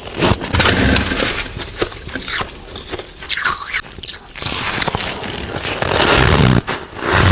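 Close-up biting and chewing of soft freezer frost, an uneven run of noisy bites that eases off for a second or so in the middle.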